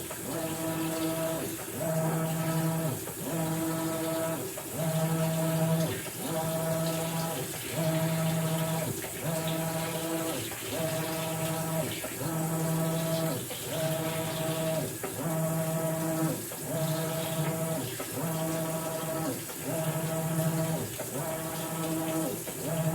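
Maytag Bravos XL top-load washing machine washing a load of bedding: the drive motor hums in strokes of about a second, breaking off briefly between strokes as it reverses, over the swish of water.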